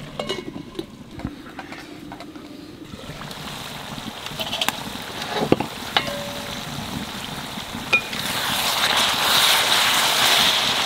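Chicken curry frying in ghee with onion and tomato in a metal pot, sizzling as a metal spatula stirs it, with a few sharp clicks of the spatula against the pot. The sizzle grows louder over the last few seconds.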